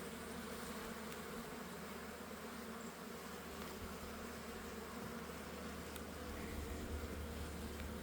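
Honeybee colony buzzing around an opened hive: a dense, steady hum.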